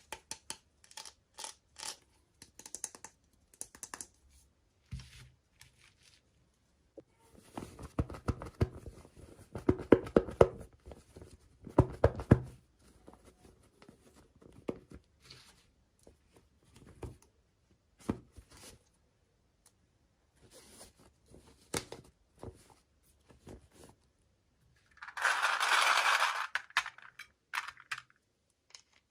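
Toy packaging being handled and opened: scattered taps and clicks of small plastic parts, with a denser run of sharper clicks and rustling about a third of the way through, then a tearing rustle of about two seconds near the end.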